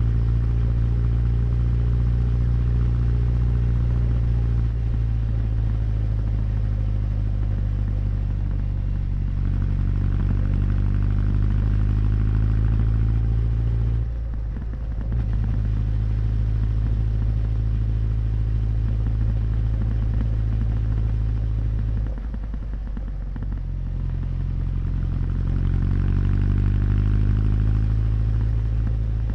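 Honda CB1100's air-cooled inline-four exhaust running steadily under way, with the engine note briefly dropping twice, about 14 and 22 seconds in, before picking up again.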